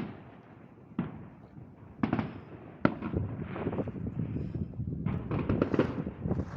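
Fireworks going off: single sharp bangs about one, two and three seconds in, followed by a run of overlapping pops and crackles.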